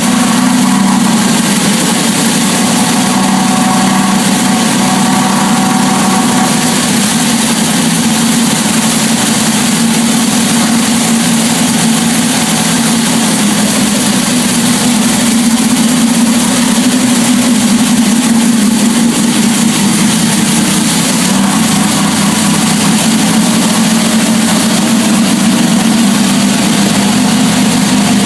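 Jon Kaase 520 cubic-inch Boss 429-style big-block V8, built on a Ford 460 block, idling loud and steady on an engine dyno at its first start, warming up on cold oil.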